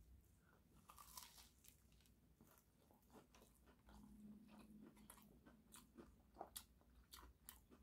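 Faint close-up chewing of a grilled, toasted cheese-and-beef melt sandwich: soft crunches of toasted bread and small wet mouth clicks, with a brief low hum about four seconds in.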